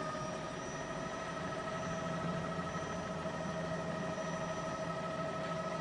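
Steady helicopter engine noise: a constant high turbine whine with a low drone beneath it.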